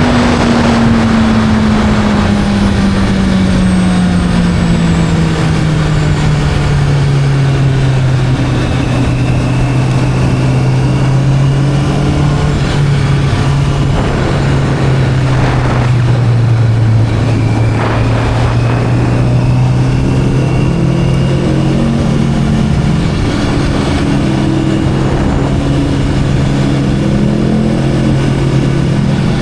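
Motorcycle engine on the move, its pitch falling steadily over the first several seconds as it slows, then running at a steady pitch, with wind rush on the microphone.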